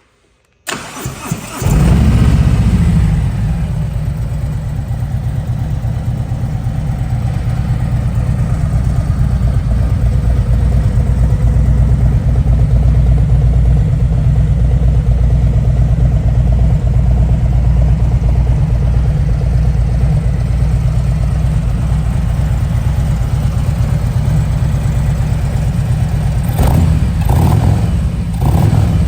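2022 Harley-Davidson Street Glide Special's Milwaukee-Eight 114 V-twin with an S&S exhaust cranked by the starter for about a second, catching with a loud burst, then settling into a steady idle. Near the end the throttle is blipped three times.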